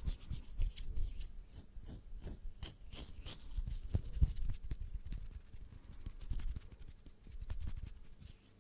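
Close-miked ASMR hand sounds: hands rubbing and fidgeting right at the microphone, giving a dense run of small crackles and clicks over soft low thumps.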